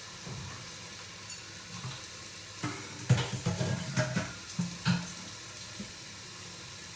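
Chicken frying in a lidded pan without oil, a steady faint sizzle, with a cluster of knocks and clatter of cookware being handled between about three and five seconds in.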